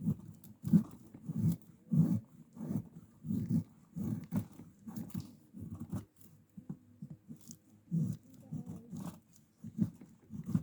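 Rhythmic low animal sounds, about three pulses every two seconds, growing less regular near the end.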